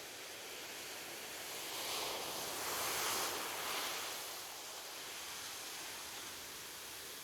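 Ocean surf washing on a shore, with one wave swelling and breaking about two seconds in, then dying back to the steady wash.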